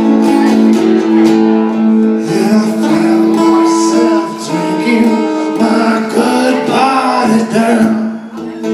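Acoustic guitar playing a blues accompaniment between sung lines. For a few seconds in the middle, a wavering melodic line sounds over the strummed and picked notes.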